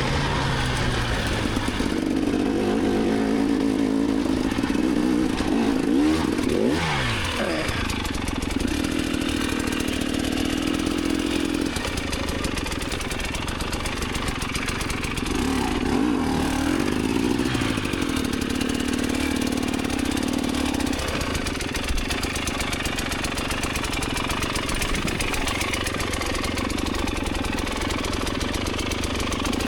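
Enduro dirt bike engine running under throttle: held at steady revs for stretches, with its pitch swooping up and down about seven seconds in and again around sixteen seconds. After about twenty-one seconds the steady note drops away and the engine runs lower and rougher.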